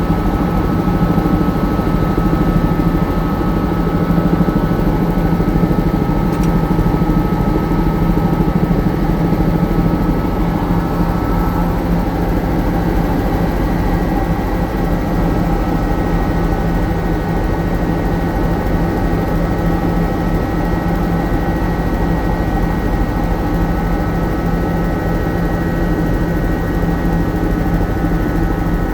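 Helicopter running steadily in flight: a constant low drone from the engine and rotor with a few steady whining tones on top, which shift slightly about halfway through.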